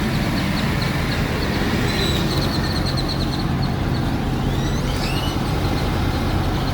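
Steady low hum of an idling diesel engine under a wash of outdoor noise. A bird chirps in a quick run of notes about two seconds in, and another whistles a few sliding notes around five seconds.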